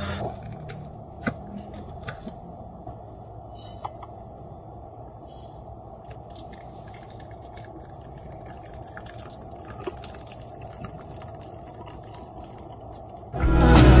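Quiet room noise with a few faint, scattered clicks and taps. Music comes in loudly near the end.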